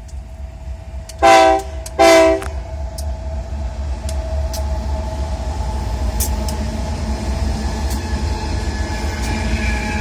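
Locomotive horn sounding two short loud blasts about a second apart, followed by the steady low rumble of a passing train that slowly grows louder, with a few sharp clicks.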